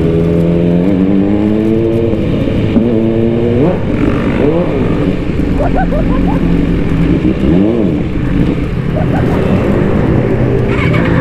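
MV Agusta F4's inline-four engine running at low revs. Its pitch climbs twice in the first four seconds, and it gives two short rev blips that rise and fall, around four and a half and near eight seconds in.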